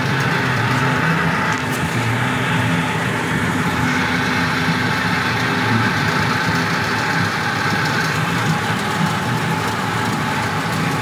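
Amusement-park train ride running steadily: a continuous engine drone with steady low tones.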